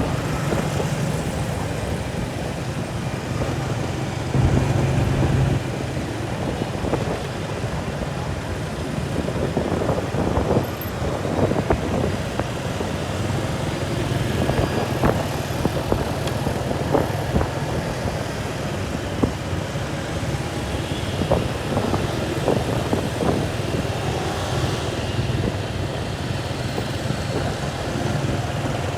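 An engine running steadily, with many short knocks and rattles over it.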